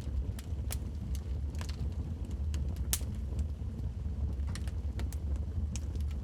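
Wood fire burning in a fireplace, crackling with irregular sharp pops, the loudest about three seconds in, over a steady low rumble.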